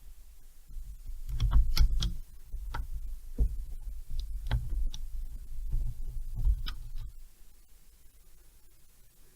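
Small metal engine parts handled on a bench: a series of irregular clicks and light knocks for about six seconds, then quiet.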